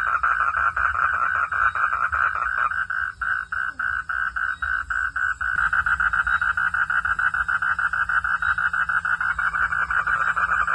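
A chorus of frogs calling: rapid, evenly pulsed calls from several overlapping callers. About three seconds in the chorus thins out, and it fills back in a little past the midpoint.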